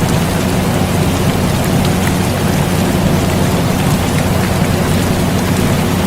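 Steady rain with scattered drop ticks, mixed with the constant low hum of an air conditioner.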